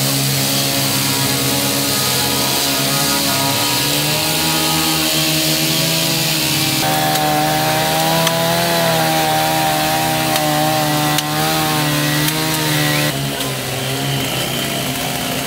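Chainsaw running and cutting through wood: a steady engine note that wavers up and down in pitch as the chain bites. The sound changes abruptly about halfway through and again near the end.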